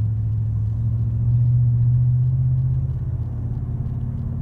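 Car engine and road noise heard from inside the cabin: a steady low drone that rises slightly in pitch about a second in.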